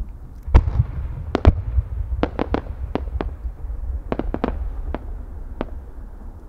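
Aerial fireworks going off: about a dozen sharp bangs in irregular clusters over a low rumble, the loudest two coming in the first second and a half.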